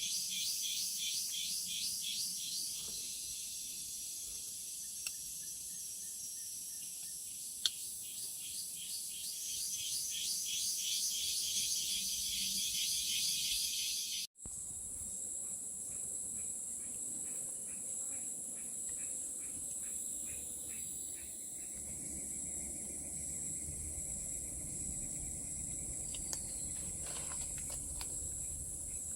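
Chorus of forest insects: a rapidly pulsing high trill for about half the time, then, after a brief break, a steady high-pitched drone.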